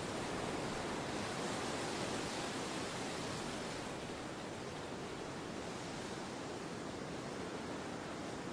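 Steady wind blowing, an even rushing that eases a little and loses some of its hiss about halfway through.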